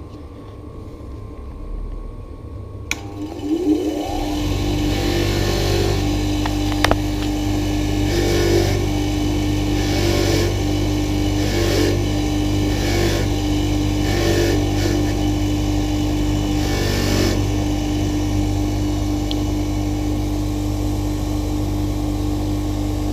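Electric rotary power tool spinning up about three seconds in, then running steadily while a rusty bicycle bolt is cleaned against it, with a rasping scrub that comes and goes every second or so.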